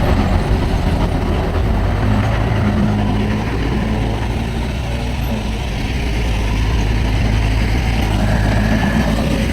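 Heavy diesel engine of earthmoving machinery running steadily at a low, even pitch, with a faint higher hum that comes and goes twice.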